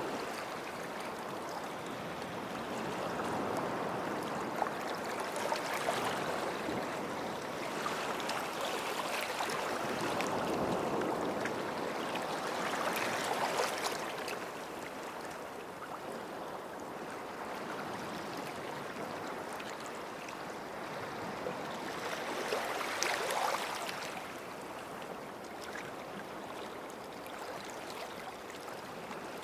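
Small sea waves washing onto the shore and drawing back, each surge swelling into a fizzing wash and fading, several times over.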